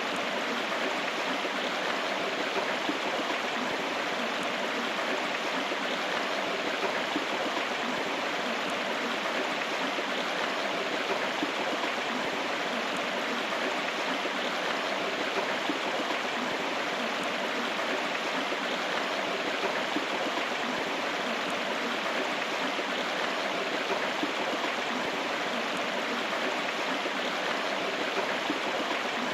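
Steady rushing of a flowing river or stream, an even wash of water noise with no breaks.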